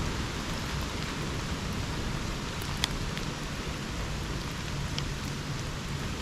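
Steady rain falling in a subtropical rainforest, with a few single drops striking close by as sharp ticks, the loudest about three seconds in.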